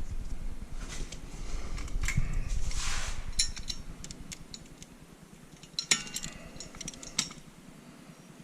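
Metal tools and parts being handled, clinking and scraping, with sharp metallic clicks about six and seven seconds in.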